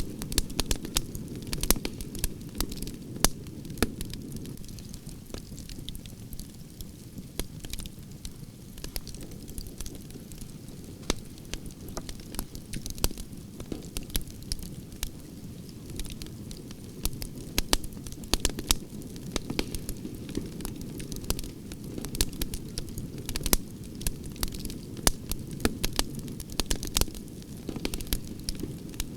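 Branches burning in a campfire: a steady low rush of flames with frequent sharp, irregular crackles and pops.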